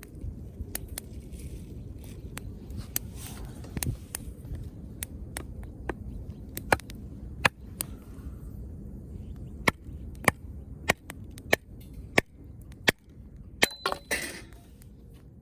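Wood fire crackling: sharp, irregularly spaced pops over a low steady rumble, with a short cluster of crackles about a second before the end.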